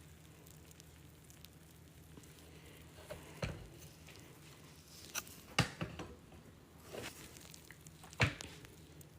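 A wet sponge being handled: a few separate soft squishes and taps over a faint steady hiss.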